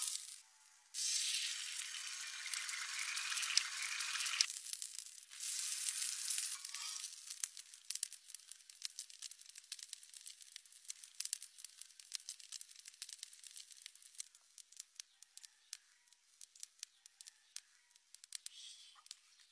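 Chicken karahi frying in a steel wok over a gas flame. Two loud stretches of sizzling hiss come in the first seven seconds, then a steady run of sharp crackling pops that thins out towards the end as the gravy cooks down.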